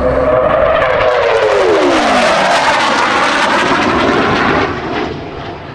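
Hawker Fury piston-engined fighter flying past at close range, the engine note sliding down in pitch as it passes and then fading away near the end.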